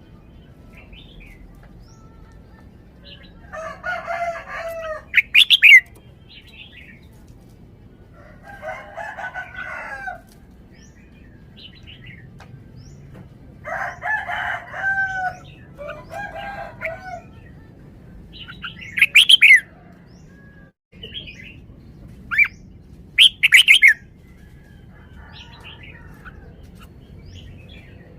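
Red-whiskered bulbul singing: short warbled phrases of a second or two, repeated about every four seconds with pauses between, some ending in loud, sharp notes.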